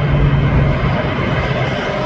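Semi truck going past on the interstate: loud engine and tyre noise with a low hum that drops slightly in pitch as it passes and fades near the end.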